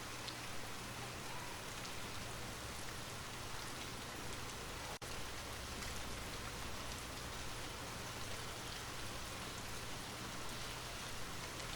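Light rain falling steadily, a soft even hiss sprinkled with the faint ticks of single drops. The sound cuts out for an instant about five seconds in.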